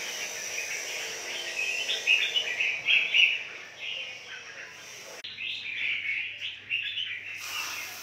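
Many small caged birds chirping, with short calls overlapping one another throughout.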